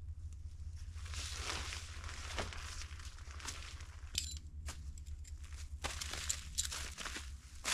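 Irregular crunching and rustling of a person moving about and handling gear on snow-covered ground, with a sharper crunch near the end. A steady low rumble runs underneath.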